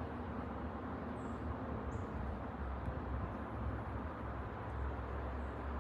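Boeing 787-9 airliner passing overhead: a steady, low jet rumble. Two short, faint, high bird chirps come about a second in and again at two seconds.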